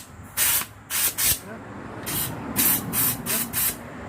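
Short hissing bursts, about eight in quick, irregular succession.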